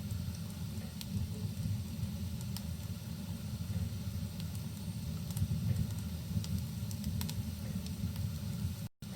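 Rain and crackling fireplace ambience: a steady low rumble with scattered sharp pops and crackles from the fire. The sound cuts out for a split second near the end.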